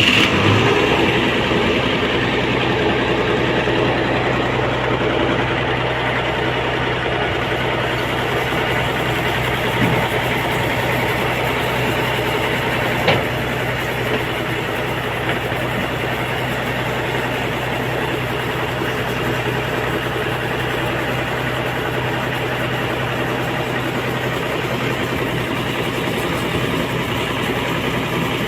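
Large diesel engine running steadily at idle with a constant low hum, having just started. Two brief knocks come at about ten and thirteen seconds.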